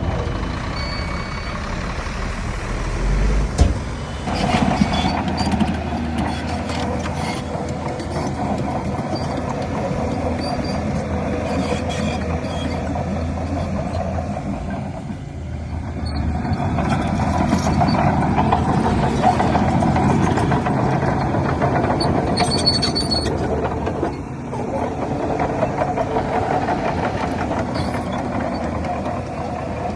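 Heavy earthmoving machinery running steadily: the diesel engines of a dump truck and a bulldozer working soil. The sound dips briefly about halfway, then grows louder again.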